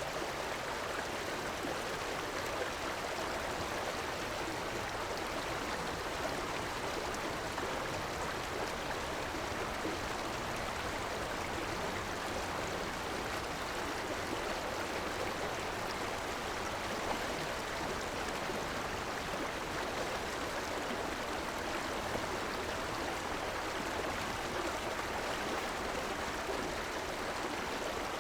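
River water flowing and rushing steadily, an even splashing hiss with no change or separate events.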